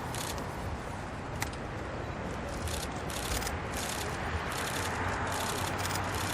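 Distant jet engine noise, a steady rush that grows slowly louder in the second half.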